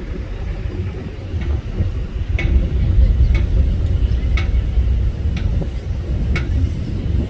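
Low, steady rumble of the ferry's engine while under way, swelling slightly after a couple of seconds. A sharp tick from something on board repeats about once a second.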